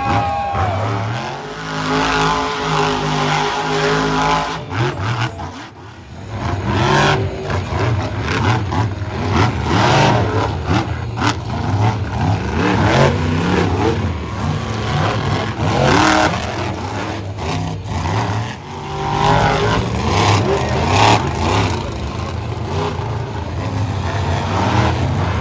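Monster truck engine revving hard, its pitch climbing and dropping again and again, with repeated sharp knocks and clatters of impacts.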